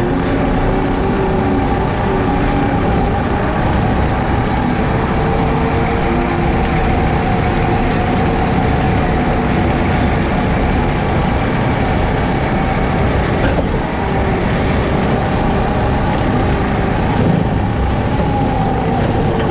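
JCB teleskid skid steer's diesel engine running steadily under load, driving a 7-foot Jenkins bush hog as it mows.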